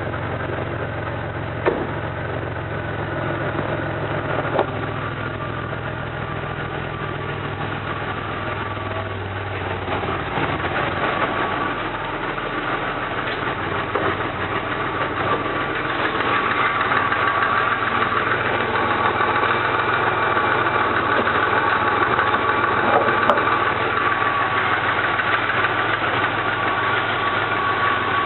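Pontiac Grand Am's engine idling, heard through its exhaust. The sound grows louder about halfway through, and a steady high whine joins it in the second half.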